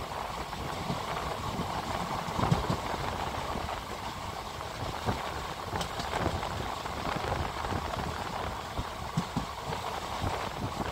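Passenger train's own coaches running over the rails, heard from the coach doorway: a steady rumble and rail noise with scattered sharp clicks as the wheels cross rail joints and points.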